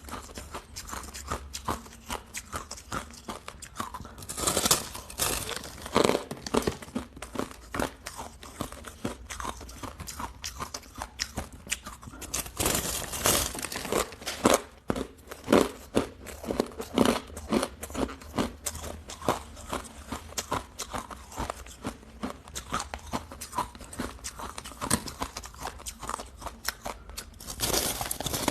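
Hard ice being bitten and chewed close to the microphone: a steady run of sharp crunches and cracks, with heavier clusters of loud crunching about four seconds in, around thirteen seconds, and near the end.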